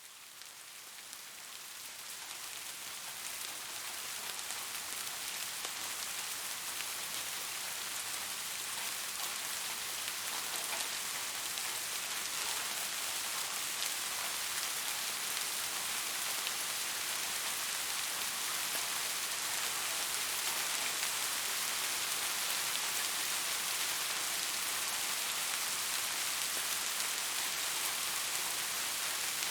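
Steady rain falling, an even hiss with fine patter, fading in over the first several seconds and then holding constant.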